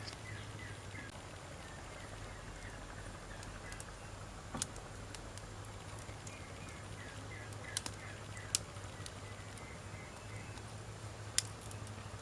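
Wood campfire burning, with a steady low hiss and scattered sharp crackles and pops from the burning logs; four louder pops stand out, about a third of the way in, twice close together past the middle, and once near the end.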